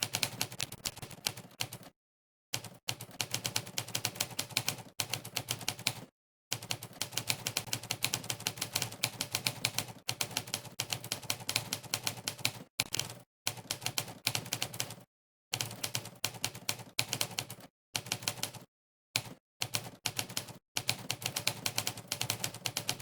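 Monkeytype's typewriter sound effect: a rapid stream of simulated typewriter keystrokes, one per keypress, in fast runs broken by short pauses of under a second. The gaps are completely silent.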